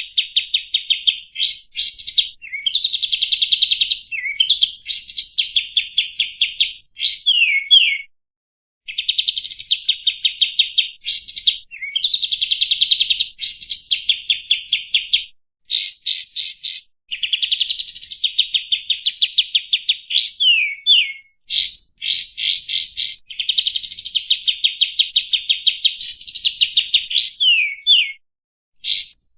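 A kapas tembak bulbul singing: phrases of fast, rattling trills broken by sharp upslurred and downslurred whistles, in bursts of a few seconds with short pauses between.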